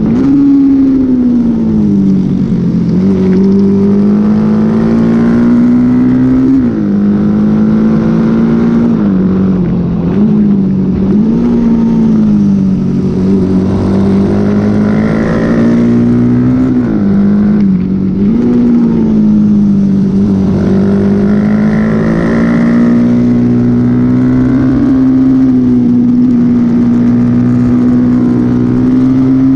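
Honda XL motorcycle engine running hard at racing pace, its pitch rising and falling repeatedly with throttle and gear changes, with several sharp jumps in pitch, over a steady rush of noise.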